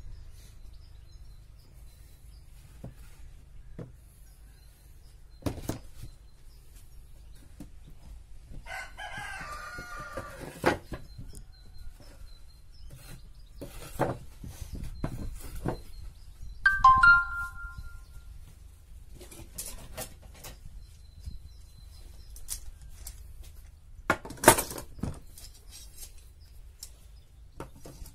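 Rooster crowing, a wavering call about nine seconds in and a short, loud call past the middle. Scattered sharp knocks and taps come throughout, with a cluster of louder knocks near the end.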